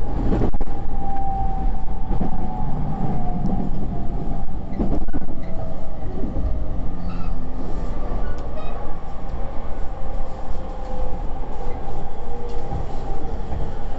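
E231 series electric commuter train running, heard from inside the car: a continuous low rumble with a faint steady whine above it.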